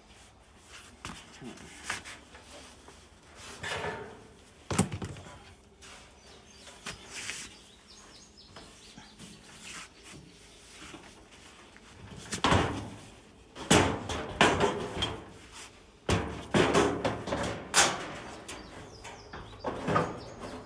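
Irregular knocks, bumps and rattling clatter from the dryer's sheet-metal front panel being handled and fitted back into place, busiest in the second half.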